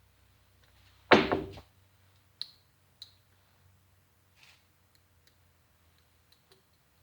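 Handling knocks: one loud clunk about a second in, then a few light clicks.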